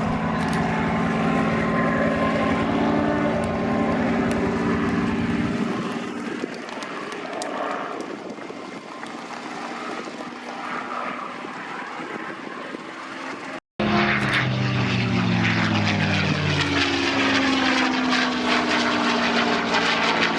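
P-51 Mustang's Packard-built Merlin V-12 engine running as the fighter flies past, fading away over the first several seconds. After a short break in the sound it comes by again loud and close, its pitch shifting as it passes.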